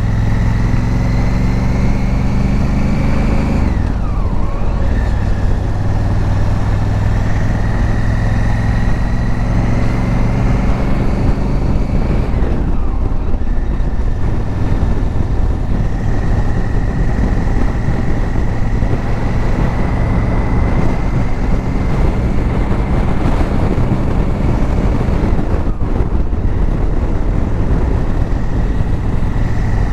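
Honda Africa Twin motorcycle riding along, its engine running steadily under wind and road noise. The engine note climbs slowly and drops off sharply about four seconds in and again about thirteen seconds in.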